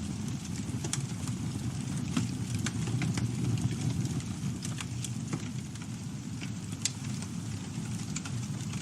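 Campfire burning: a steady low rumble of flames with irregular sharp crackles and pops from the burning wood, several a second.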